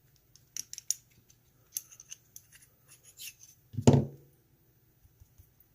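Small metallic clicks and scrapes of springs being picked out of the pin chambers of a disassembled euro cylinder lock, with one louder knock about four seconds in.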